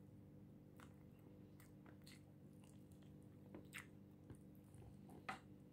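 Faint eating sounds from gnawing meat off a chicken bone: a few scattered soft clicks and smacks of biting and chewing over a steady low hum.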